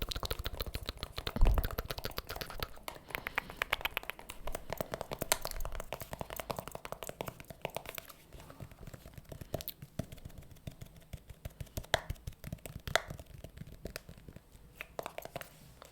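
Rapid close-up tapping and clicking, many small clicks a second, dense in the first half and thinning out to scattered single clicks later.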